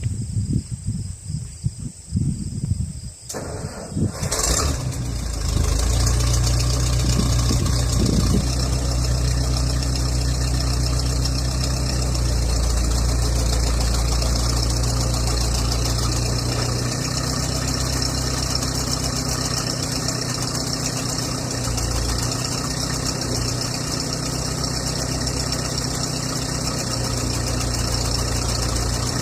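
A backhoe's diesel engine starts about four to five seconds in, then runs steadily at idle.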